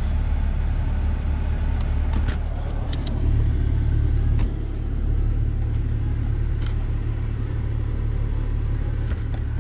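Infiniti G37 sedan's V6 engine idling, a steady low hum heard from inside the cabin, a little louder for about a second a few seconds in before settling back. A few faint clicks over it.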